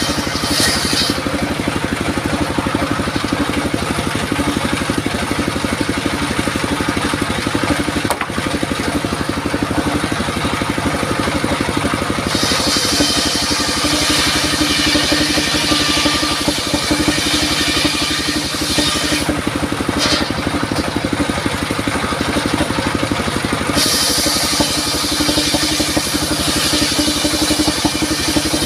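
Engine-driven circular sawmill running steadily with a fast, even engine pulse. A harsher high hiss, the blade cutting through durian wood, comes in about twelve seconds in and fades near the end.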